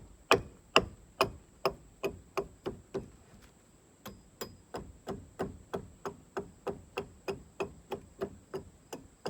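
A small hatchet chopping into a log, cutting out a saddle notch: a steady run of sharp strokes about two to three a second, stopping briefly about three seconds in, then going on a little softer.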